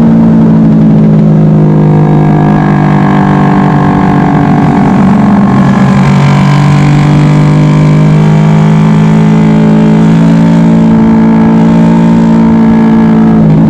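Suzuki Raider 150's single-cylinder four-stroke engine through its stock exhaust, held at high revs on a top-speed run. The pitch sags slightly a few seconds in, then holds steady, with wind noise on the microphone.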